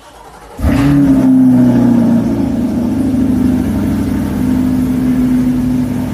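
A car engine starting from cold. It catches about half a second in, flares up briefly, then settles into a steady fast idle.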